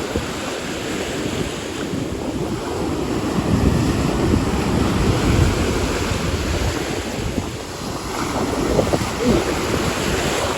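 Ocean surf washing in, with gusting wind buffeting the microphone in a loud, uneven rumble.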